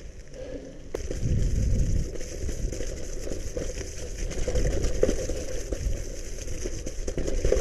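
Gravel bike tyres rolling and crackling over a wet, muddy trail, with wind rumble on the microphone that grows louder about a second in as the bike picks up speed.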